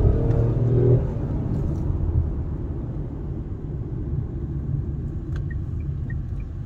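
Tata Punch's 1.2-litre Revotron three-cylinder petrol engine heard from inside the cabin, pulling hard under heavy throttle with its pitch climbing, then dropping away suddenly about a second in at a gear change. After that comes a steadier, quieter low engine and road rumble.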